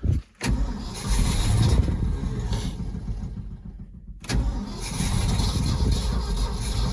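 Engine of a 1971 Ford F600 truck, with a loose connecting rod and a holed, JB-Welded block, firing and running rough. It dies away about three seconds in and catches again about a second later: it will not stay running.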